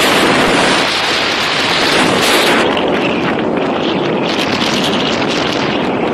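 Wind blasting over the microphone of a moving motorcycle, a loud steady rush with the ride's road and engine noise underneath.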